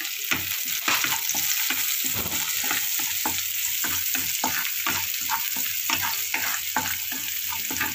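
Onions, green chillies and curry leaves sizzling in hot oil in a kadhai, stirred with a spatula that scrapes and knocks against the pan several times a second.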